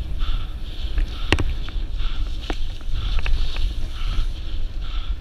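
Wind buffeting a moving microphone, a steady low rumble with scattered sharp knocks and rattles throughout.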